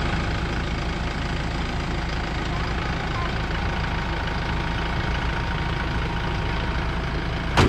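Kubota tractor's diesel engine idling steadily, running again after its gelled, clogged fuel filters were replaced and the fuel system primed. A short sharp click comes near the end.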